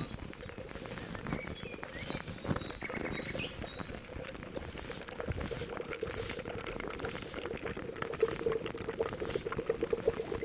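Pot of liquid boiling with a steady bubbling that grows stronger near the end. A few bird chirps come in about a second and a half in.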